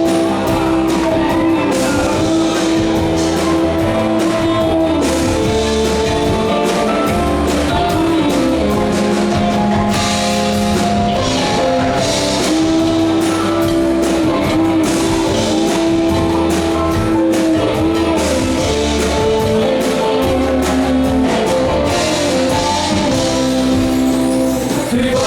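Rock band playing live: guitar over a drum kit, a steady full-band sound with long held melodic notes.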